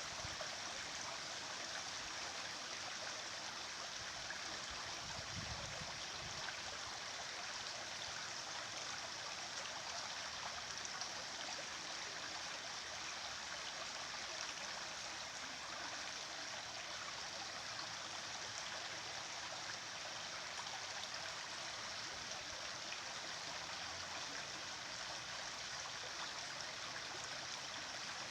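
Stream water flowing and babbling steadily, an even rushing hiss without breaks.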